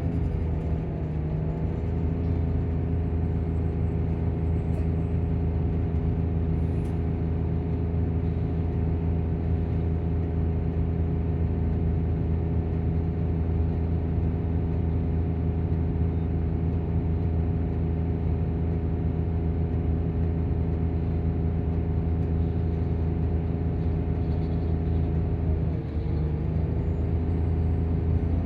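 Volvo coach diesel engine and its engine cooling fan running steadily at idle, a low even drone. The revs settle just after the start and dip briefly near the end.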